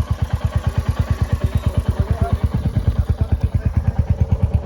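Motorcycle engine running at low revs, its exhaust giving a steady low beat of about eleven pulses a second.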